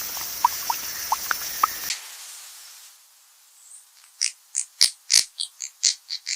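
Steady high hiss with short squeaky chirps a few times a second, which cut off abruptly about two seconds in; after a pause, a quick run of about a dozen sharp, high animal chirps.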